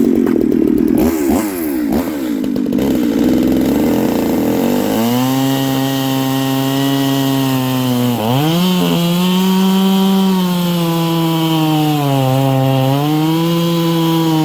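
Two-stroke Stihl 440/046 chainsaw with a ported cylinder and tuned-port exhaust, running flat out and cutting wood. The first few seconds are rough as it bites in, then it holds a steady high pitch that sags briefly under load twice.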